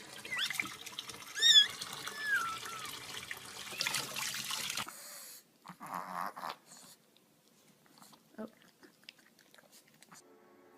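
A pet animal giving a few short, wavering cries in the first three seconds. After a cut about five seconds in, there are only scattered faint clicks and knocks.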